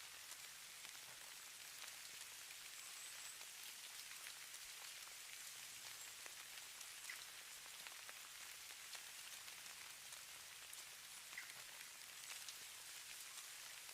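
Faint, steady patter of light precipitation: a soft, even hiss, mostly high-pitched, dotted with many tiny scattered ticks of flakes or drops landing on a surface.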